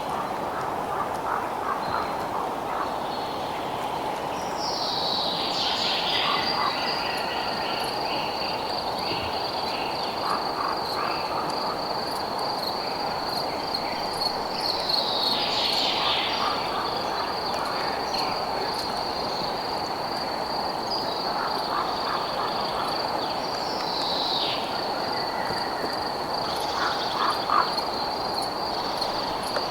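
Night chorus of frogs croaking densely, joined a few seconds in by a steady high pulsing trill. A falling call repeats roughly every nine to ten seconds.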